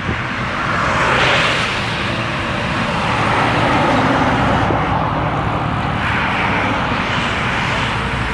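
Heavy diesel tractor-trailer truck engine running under load, a steady low drone beneath a loud rush of noise.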